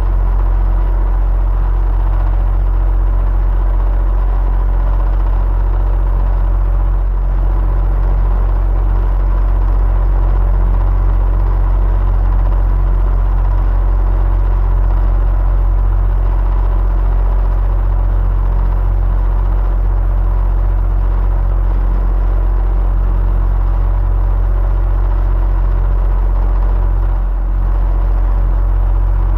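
Electric fan running steadily: a deep, even hum with a few faint steady tones above it.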